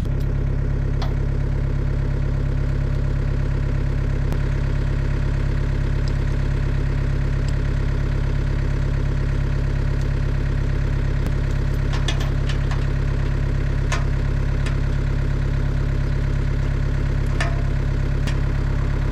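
Diesel engine of a Cat 307SSR mini excavator idling steadily, with a few faint light clinks over it.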